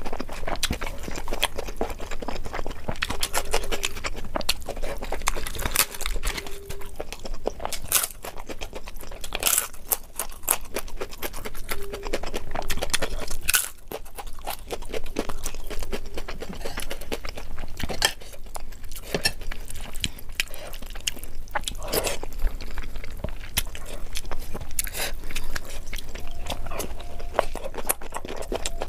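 Close-miked eating of curry and rice by hand: chewing and mouth sounds, with a dense, irregular run of sharp wet clicks and smacks and some crunching.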